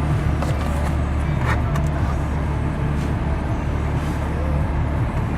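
Steady low hum of a 2018 GMC Yukon Denali's 6.2-litre V8 idling, heard from inside the cabin, with a few faint clicks.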